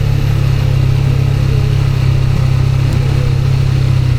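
Moving vehicle's engine and road noise: a steady low drone that holds level throughout.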